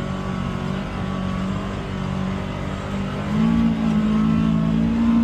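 UTV engine running steadily, its pitch and level stepping up about three seconds in as the throttle is opened.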